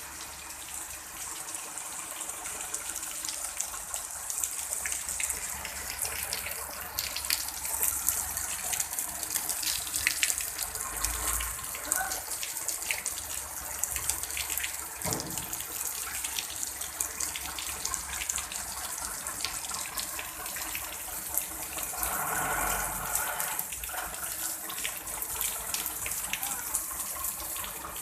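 Rain falling steadily: a constant hiss with the close patter of many drops.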